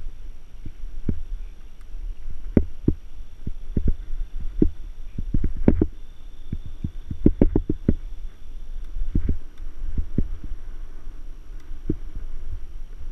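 Mountain bike jolting over rough ground: irregular knocks and rattles, in clusters, over a steady low rumble.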